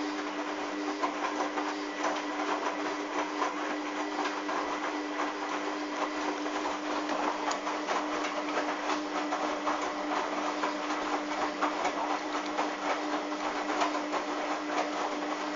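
Hoover washing machine running its drum: a steady motor whine with continuous rattling and clatter from the machine.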